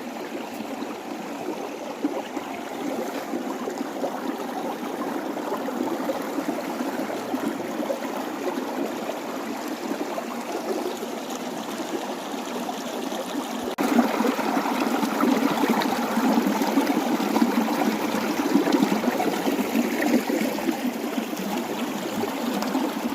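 Rushing water running steadily, a continuous hiss and splash; it gets suddenly louder about fourteen seconds in.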